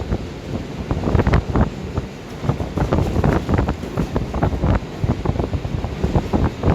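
Wind buffeting the microphone in rapid, irregular gusts, a rumbling, knocking noise heaviest in the low end.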